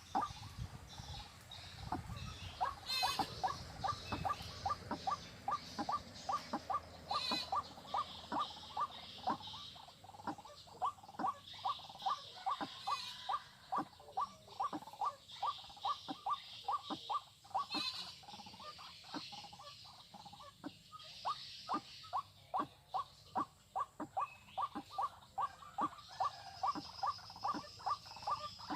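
White-breasted waterhen (ruak-ruak) calling: a long series of short, sharp notes repeated about three times a second. Higher buzzing patches come and go behind it.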